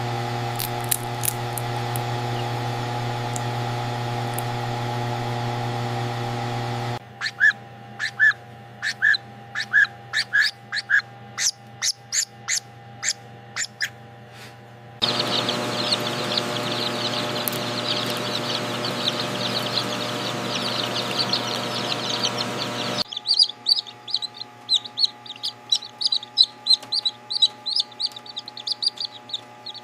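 Newly hatched chicks peeping in an incubator hatcher. For the first seven seconds there is only a steady machine hum. Then separate peeps come about twice a second, and after that a dense chorus of cheeping over steady fan noise, then rapid peeping, each change coming abruptly.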